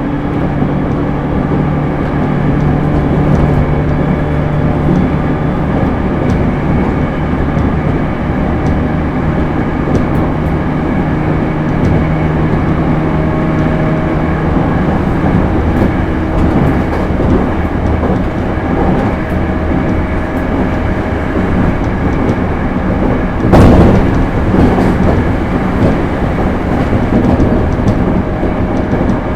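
Cabin running sound of a JR East E231-series suburban electric train with Hitachi IGBT inverter drive, at speed: steady wheel-and-rail rumble with a low hum that fades out about halfway through, and a brief louder rush about three-quarters of the way in.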